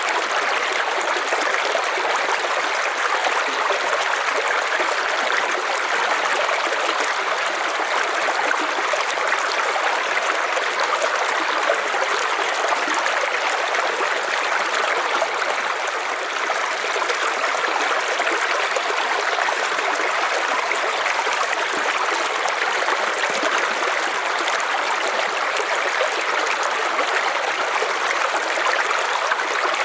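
River water flowing steadily over stones, an even, unbroken rush with no low rumble.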